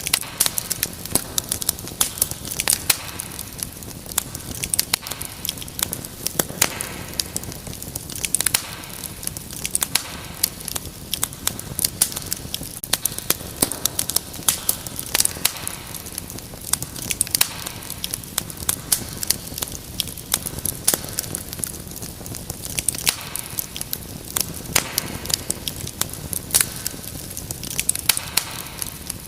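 Fireplace fire crackling, with many irregular sharp pops and snaps over a steady hiss.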